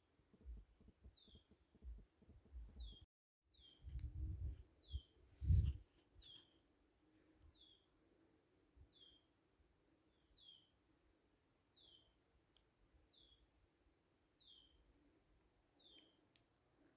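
A small bird chirping over and over, short high notes about twice a second, alternating a flat note with a falling one. Low rumbling thumps come through in the first few seconds, the loudest about five and a half seconds in, with a brief dropout of all sound just after three seconds.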